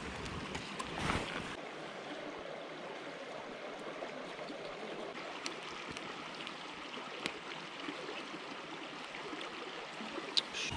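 Mountain stream flowing, a steady rushing of water, with a few faint clicks and a short thump about a second in.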